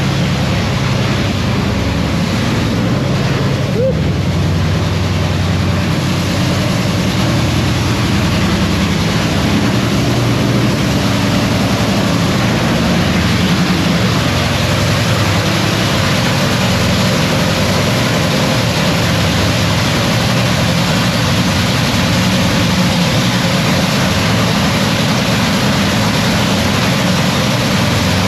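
Supercharged nitromethane drag-racing engine running at a steady, loud idle during a pit warm-up.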